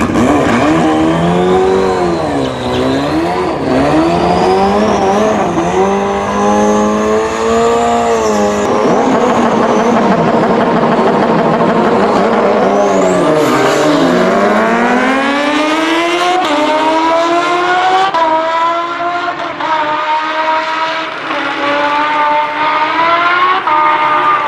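Superbike engine revving up and down, then accelerating hard through the gears, with quick upshifts one after another in the second half.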